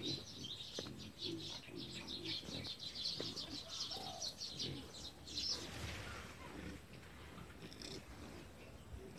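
Small birds chirping busily in quick, rapid runs, thinning out about six seconds in.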